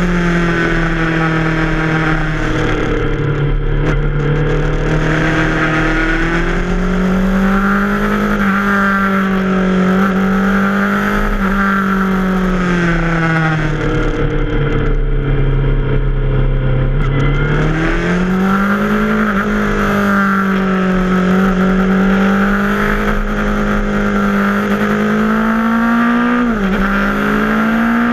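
Yamaha FZ6R's 600 cc inline-four engine running under load, its pitch rising and falling as the throttle is rolled on and off through the bends. About 14 seconds in the engine note drops for a few seconds as the rider eases off, then climbs again, with a quick dip near the end.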